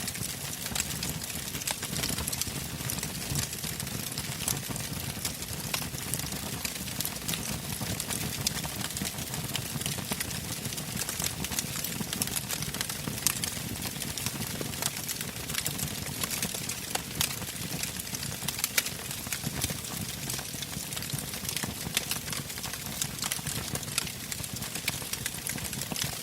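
Bonfire burning with steady crackling and many sharp pops, over a low rumble.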